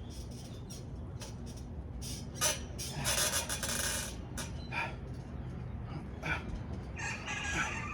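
Bird calls, likely a rooster or other fowl: a longer call from about three to four seconds in, with several short calls after it.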